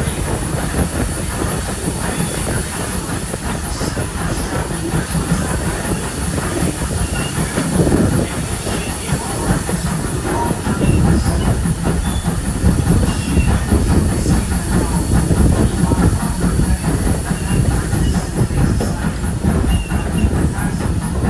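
Passenger train rolling along the track, a steady rumble with the clatter of wheels over rail joints, growing a little louder in the second half.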